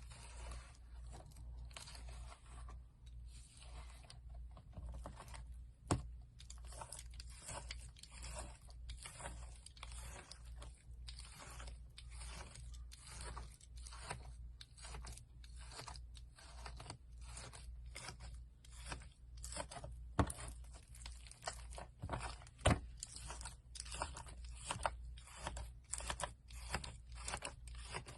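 Slime being pressed and worked by hand, giving a steady run of short crackly, crunchy squishes about one or two a second, with a few sharper clicks.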